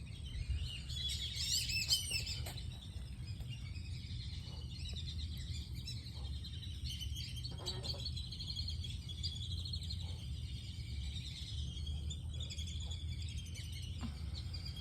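Birds chirping in quick repeated calls, busiest in the first couple of seconds, over a steady low rumble.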